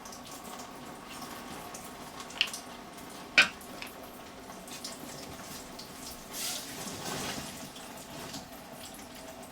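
Engine coolant running out of a Chevy S10 radiator's drain bung in a steady trickling splash, with two sharp clinks about a second apart, about two and three seconds in.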